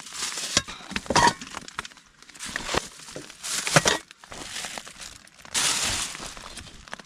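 Nylon tent fabric flapping and crinkling in strong wind, in irregular gusty bursts with a few sharp cracks among them.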